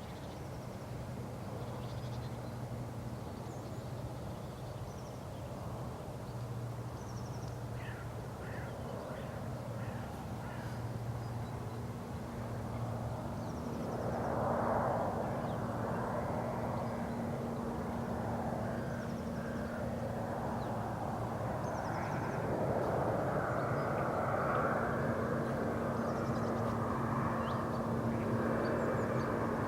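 Crows cawing and small birds calling over a steady engine drone, which swells from about halfway through like an approaching aircraft.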